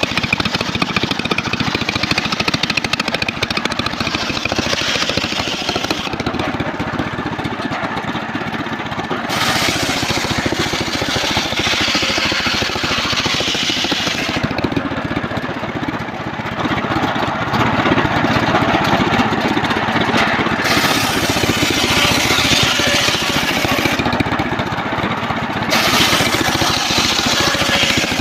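Engine-driven home-built circular sawmill running steadily while sawing trembesi (rain tree) timber, with a brighter, hissier edge that comes and goes every few seconds.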